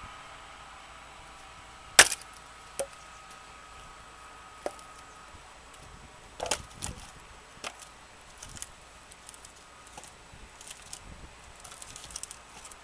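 A steel axe strikes a dry oak firewood log once, sharply and loudly, about two seconds in, then comes a scatter of lighter knocks and clatter from the split wood pieces.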